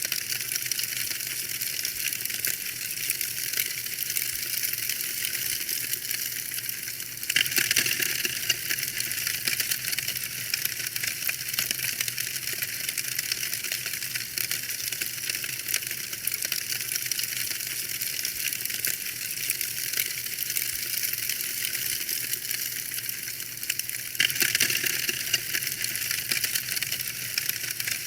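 Wood fire in a fireplace crackling and popping: a dense stream of sharp snaps over a hissing burn, growing suddenly louder twice.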